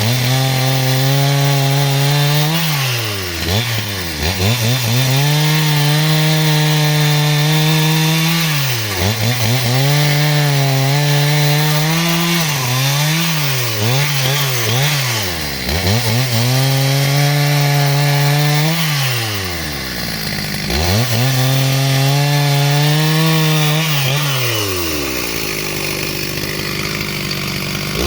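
Two-stroke chainsaw held at full throttle while cutting wood into rafters, the engine note dropping sharply and revving back up every few seconds as the throttle is let off and squeezed again. Near the end it falls to a low idle for a few seconds, then revs up again.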